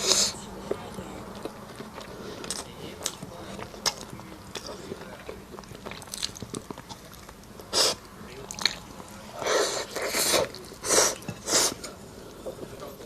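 Close-miked eating: chewing and biting with small wet mouth clicks. A run of louder, noisy bites comes near the end.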